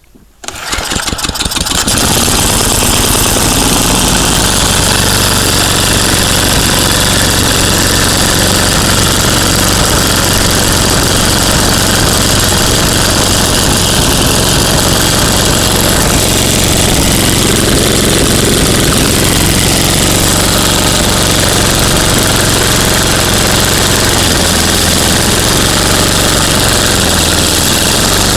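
Tecumseh HM80 8 hp single-cylinder four-stroke engine of a 1988 Ariens ST828 snowblower catching on a cold start, coming up to speed within about two seconds, then running steadily.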